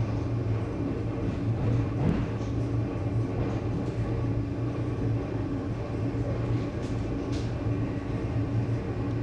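Running noise inside an ED9M electric multiple unit carriage: a steady low hum with the wheels rolling on the rails and a few light clicks from the track.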